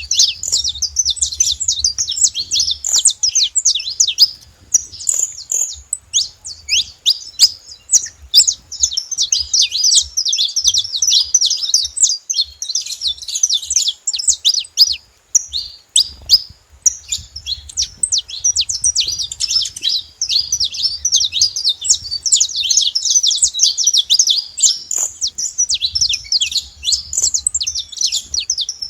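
Saffron finches singing: a fast, almost unbroken stream of high chirps and trills, with brief pauses about five and sixteen seconds in.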